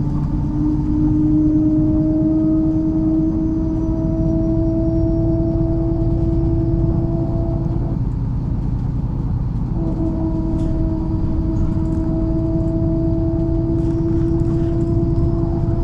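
MAZ-103 city bus on the move, heard from inside: a steady low engine rumble with a whine from the driveline that rises slightly in pitch, drops out for a moment about eight seconds in, then comes back.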